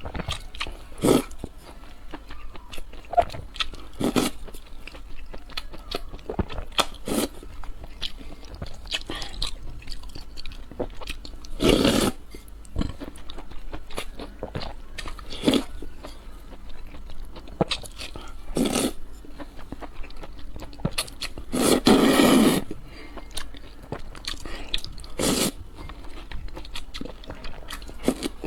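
Close-miked eating sounds: a person biting and chewing crunchy food in a string of short crisp crunches. Twice there is a louder stretch of about a second.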